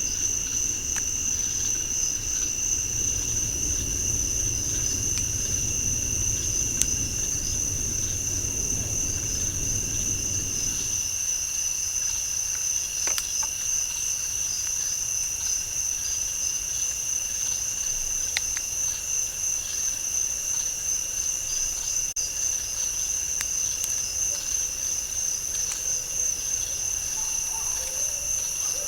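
Night insect chorus: crickets trilling steadily on a high, even pitch. A low rumble underneath stops about a third of the way in, and a few faint clicks sound.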